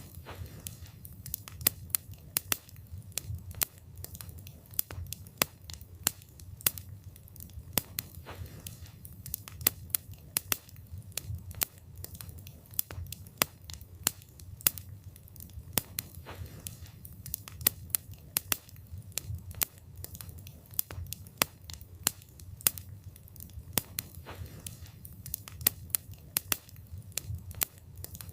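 Wood fire crackling: irregular sharp pops and snaps from burning logs, several a second, over a steady low rumble of the flames.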